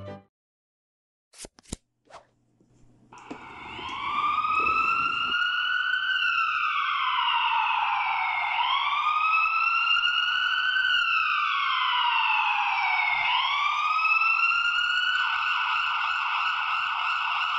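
Two sharp clicks, then a toy ambulance's electronic siren plays through its small built-in speaker. It is a tinny wailing tone that rises and falls slowly, about five seconds to each cycle, and switches to a steady held tone near the end.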